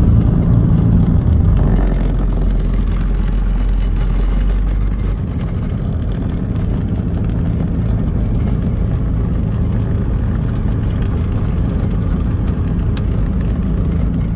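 Engine of a Pulsar light aircraft running steadily with a low drone. It eases a little about two seconds in and again about five seconds in, then holds steady.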